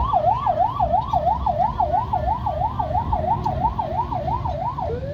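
Police vehicle siren on a fast yelp, sweeping up and down about three times a second, then switching near the end to one long, slowly falling tone, over a low rumble.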